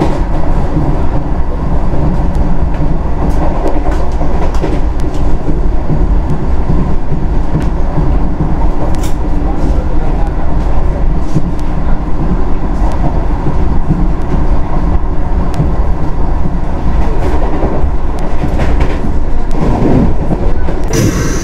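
Vande Bharat Express electric trainset running on the rails, a loud steady rumble of wheels on track with scattered clicks from the rail joints.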